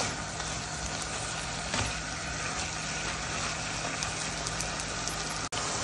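Diced chicken frying in a nonstick wok, a steady sizzle as the meat gives off its water, with a few light clicks of the spatula turning it, over a steady low hum. The sound cuts out for an instant near the end.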